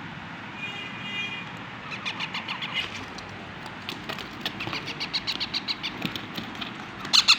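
Baby parrot chicks giving begging calls while being hand-fed: a short pitched call about a second in, then runs of rapid high chirps, about five a second, with a louder burst of calls near the end.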